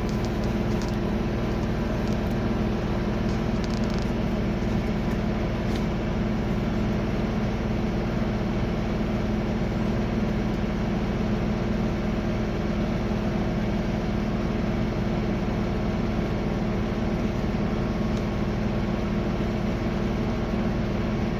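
Reefer truck refrigeration unit running steadily, a constant hum with a few steady tones. Its fan motor is turning again after new carbon brushes and a new fuse, and the unit is bringing the temperature down.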